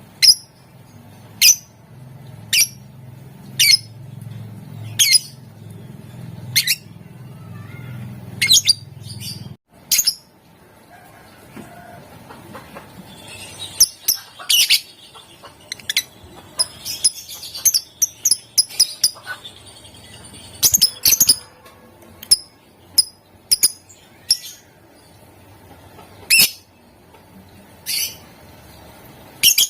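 Lovebird calling in sharp, high-pitched chirps: single calls about once a second at first, a rapid run of chirps about halfway through, then single calls again.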